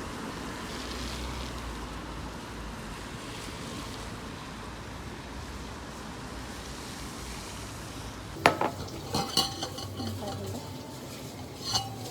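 A steady hiss for about eight seconds, then a quick run of sharp clinks and knocks of dishes and utensils, with one more clink near the end.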